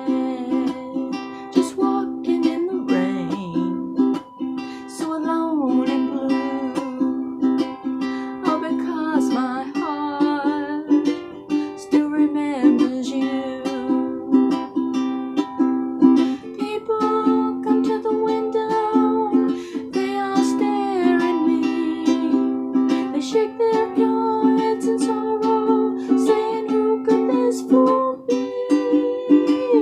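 Tenor ukulele strummed in a steady rhythm, its chords changing every few seconds.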